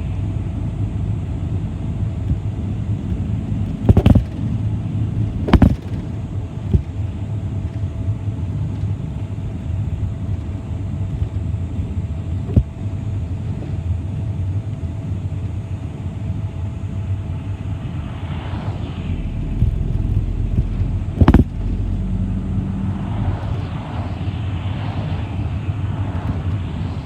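City bus in motion, heard from inside the cabin: a steady engine and road rumble with a faint steady whine. Three sharp knocks or rattles come through, at about four, six and twenty-one seconds in.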